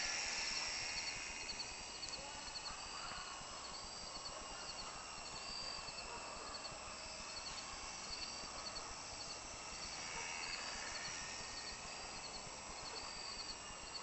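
Faint whine of a ParkZone Cessna 210 radio-control model plane's electric motor in flight. It swells at the start and again about ten seconds in as the plane passes nearer, then fades.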